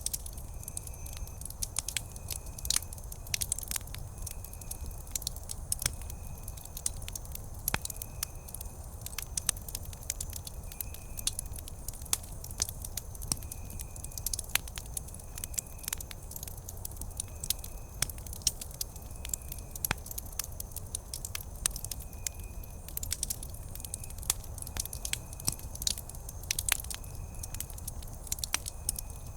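Wood campfire crackling, with many sharp irregular pops over a steady low rumble of burning. A faint short high chirp repeats every second or two behind it.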